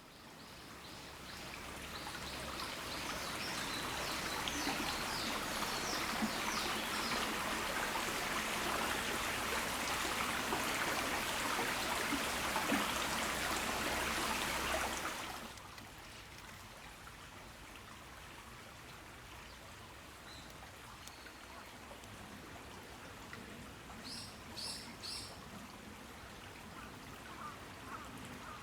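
Rain falling in a garden as a steady, even hiss, with small birds chirping over it in the first few seconds. About halfway the rain drops abruptly to a much softer patter, and a short bird call comes a few seconds before the end.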